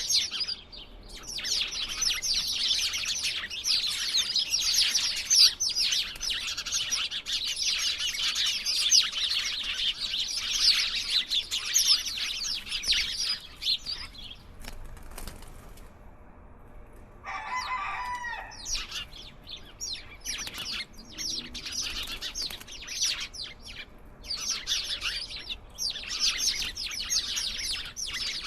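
A flock of small birds chirping in a dense, rapid chatter, with wing flutters among it. The chatter pauses briefly past the middle, a lower call sounds, and the chirping resumes.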